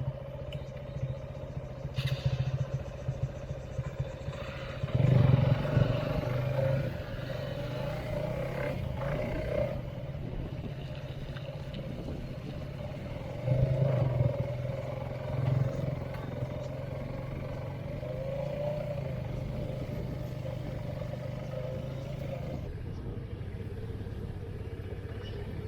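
Motorcycle engine running on a muddy trail, revving up twice: a longer surge about five seconds in and another around thirteen to fifteen seconds in, otherwise holding a steady low drone.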